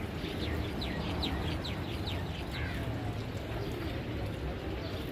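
A bird calling a quick series of short chirps that slide downward in pitch, about ten in two and a half seconds, over a steady low rumble.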